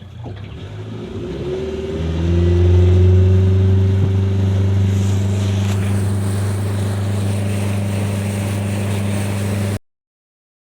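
Engine revving up over the first two seconds, then running at a steady pitch; it cuts off suddenly near the end.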